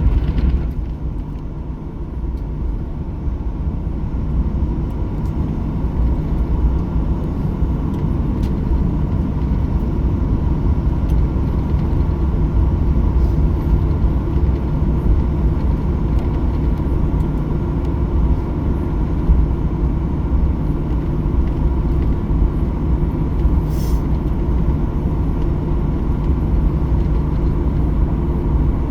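Steady cabin noise inside a Boeing 737-800: a continuous deep rumble from its CFM56 engines and airflow, with a faint steady hum on top. It dips slightly about a second in, then builds back up.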